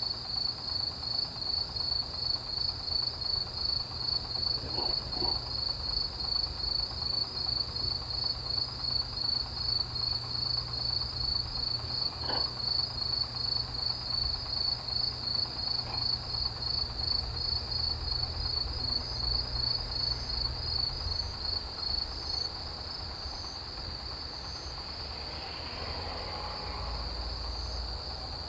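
A chorus of autumn field crickets chirping. One loud, high chirp pulses in an even rhythm of about two a second, with fainter, higher chirping behind it. Near the end the pulsing gives way to a steady trill.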